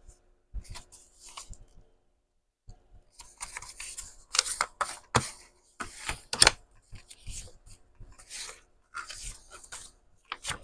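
Sheets of paper rustling and scraping as they are handled, in irregular strokes, with a short still gap near the start.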